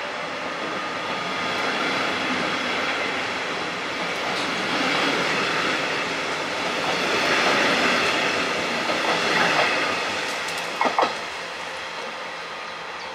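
Double-deck regional passenger train running past on the rails, its wheel and rail noise swelling and then fading as it goes by. Two short sharp clicks come near the end.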